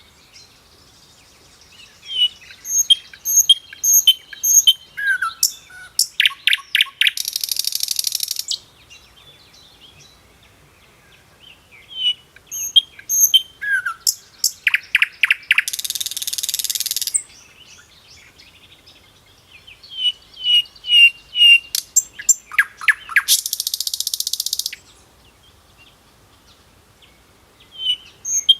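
A bird singing the same phrase three times with quiet gaps between: a run of clear chirps, a short falling note, a fast rattling trill, then a harsh buzz of about a second and a half.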